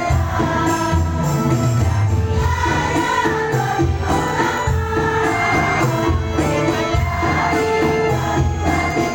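A choir singing a sholawat, an Islamic devotional song, with held notes over a steady low percussive beat.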